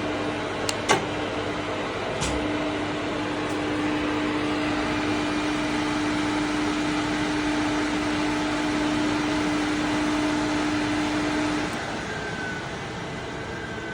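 Electrical test setup for a soft starter: a few sharp switch clicks, then a steady hum that runs for about nine seconds and cuts off near the end. Throughout, a constant fan-like whir can be heard.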